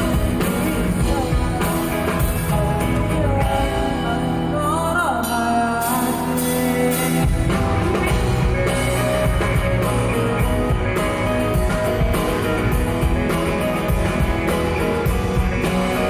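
Live band playing an instrumental interlude of a pop-rock song, with guitar, bass and a drum kit keeping a steady beat; the low bass note shifts about seven seconds in.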